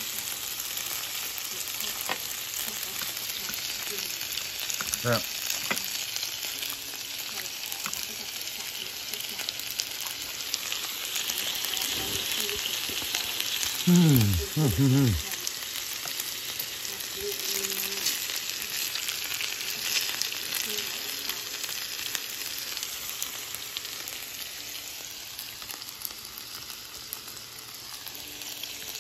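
Pork belly, vegetables and glass noodles sizzling on an electric tabletop griddle, a steady frying hiss, with the food moved about with chopsticks. About fourteen seconds in comes a brief, loud sound that falls in pitch over about a second.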